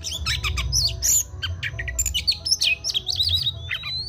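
Oriental magpie-robin singing a fast, varied run of whistles, chirps and harsh notes, ending with a long rising whistle. A low steady hum lies underneath.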